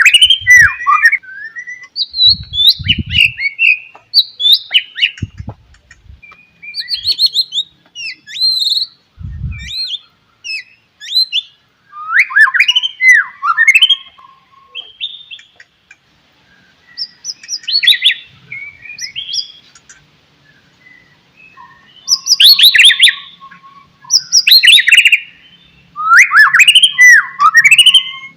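White-rumped shama (murai batu) singing: loud, varied phrases of quick gliding whistles and chattering notes, in bursts of a second or two with short pauses between.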